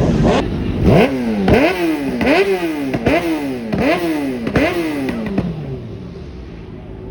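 A car engine being revved repeatedly: about seven quick throttle blips in a row, each rising sharply and dropping away, then the revving stops and fades out.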